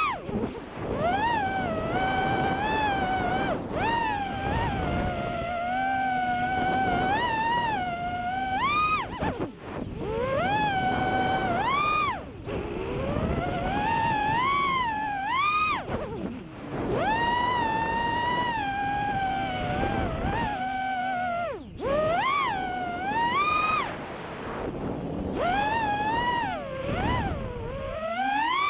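FPV freestyle quadcopter's brushless motors and propellers whining in flight. The pitch rises and falls with the throttle, with brief throttle cuts that drop the sound every few seconds.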